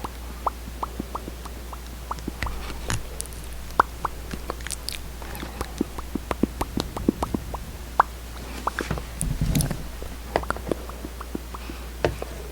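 Close-miked lip smacks and small sticky mouth clicks, the sound of lipstick or lip gloss on the lips, coming in quick irregular pops with a denser patch about nine seconds in.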